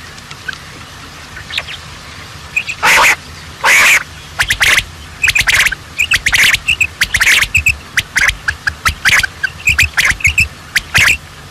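Birds calling with short harsh squawks: two longer, louder ones about three and four seconds in, then a rapid run of short calls.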